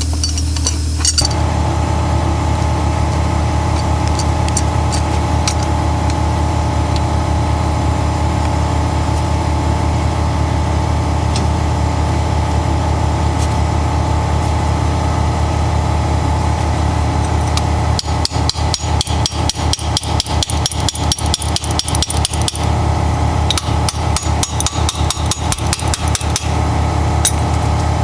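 A steady low machine hum, and from about two-thirds of the way in, two spells of rapid, even hammering from an impact wrench running down fasteners on a 30/30 air brake chamber.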